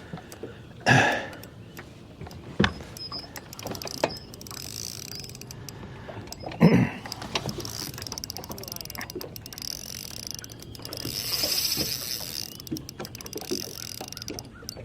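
Fishing reel being worked while a hooked striped bass is played, its mechanism clicking. There are two brief louder rushes, one about a second in and one near the middle, and a short hiss later on.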